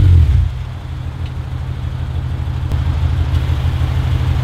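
A car engine idling with a steady low, fast pulse that slowly grows louder. A louder engine sound dies away in the first half second.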